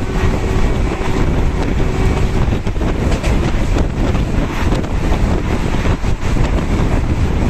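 Wind buffeting a microphone held out of a moving passenger train, over the steady rumble of the train running at speed on the track.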